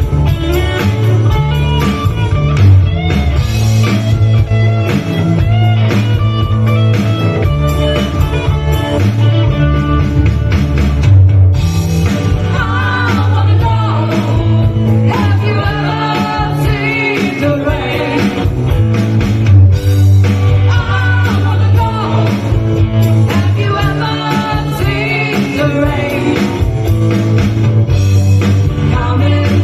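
Rock song played by a band with electric guitar and bass, a singer's voice coming in over the guitar about twelve seconds in.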